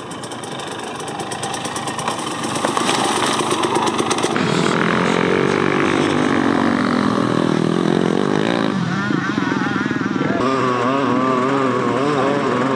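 Dirt bike engines running and revving, their pitch rising and falling, broken by abrupt cuts from one riding clip to the next.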